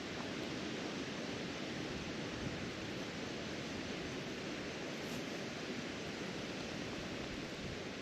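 Steady wind, an even rushing hiss with no distinct calls or knocks.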